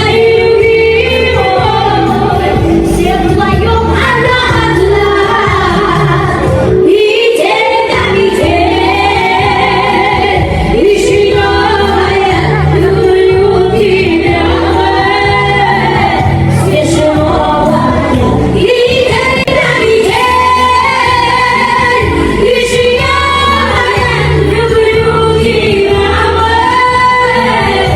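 Pop remix of a song sung by a woman, her voice over a steady backing beat and bass. The bass drops out briefly about seven seconds in.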